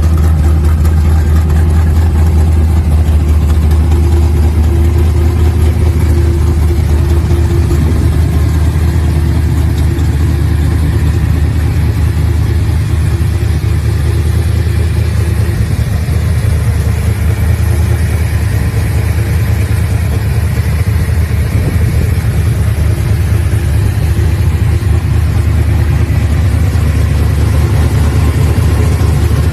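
Large car engine idling steadily, its deep low note even throughout.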